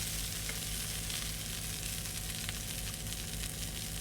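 Cornbread patties and asparagus frying in butter in a pan: a steady sizzle with a few small pops.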